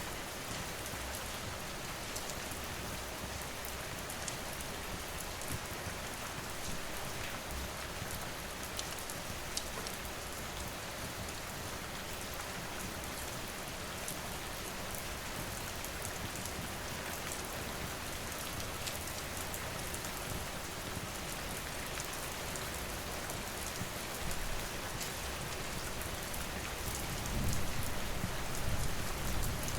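Steady rain falling, an even hiss with scattered sharp little ticks. A low rumble swells in about 27 seconds in.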